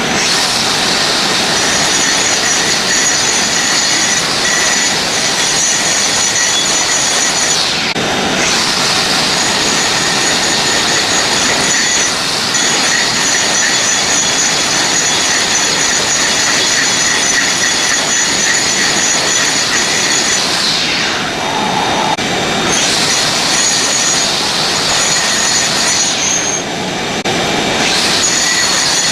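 DeWalt DCG418 FlexVolt 60V grinder with a 4-inch grinding cup grinding concrete flat under a dust shroud: a loud, steady grinding noise with a high-pitched whine, easing off briefly about three times.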